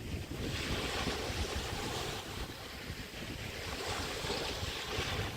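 Bay waves washing up on a beach, one wash about half a second in and another around four seconds in, with wind buffeting the microphone.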